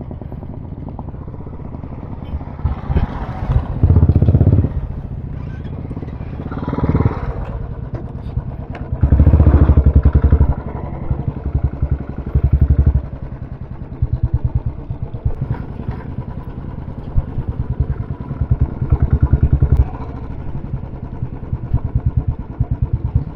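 Royal Enfield single-cylinder motorcycles running with a rapid, steady thumping exhaust beat. The engine sound surges loudly several times, around 4, 10, 12 and 19 seconds in, as bikes rev or pass close by.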